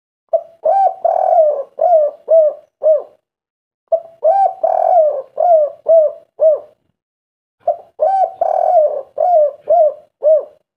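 Spotted dove (derkuku/tekukur) singing the 'kuk 3' song type: three phrases of low, rounded coos, each a run of about six notes, with short pauses between phrases.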